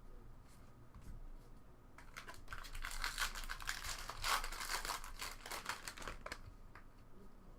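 Foil trading-card pack wrapper crinkling as it is torn open and pulled away, a dense crackle from about two seconds in until about six and a half seconds.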